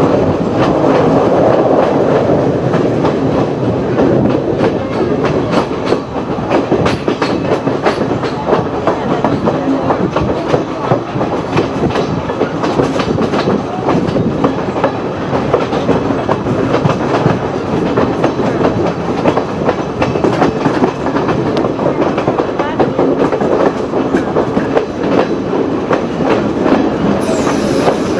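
Sri Lanka Railways passenger train running on the Main Line, heard from an open carriage window: a steady running noise dense with rattles and the clicking of wheels over rail joints.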